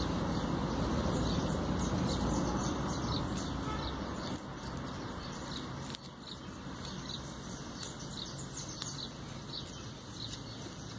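Small birds chirping over and over in short calls, over a steady low rushing noise that drops away after the first few seconds.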